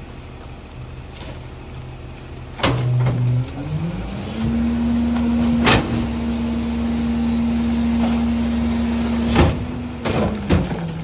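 Garbage truck engine idling, then revving up about three seconds in and holding a steady higher pitch with a low drone beneath as the packer crushes the load, dropping back near the end. Loud clanks at about three, six and nine seconds.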